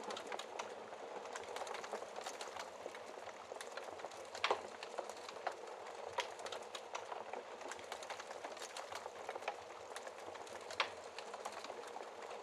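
Wood fire crackling in a fireplace: a steady hiss with frequent small crackles and a few louder pops, about four and a half seconds in and near the end.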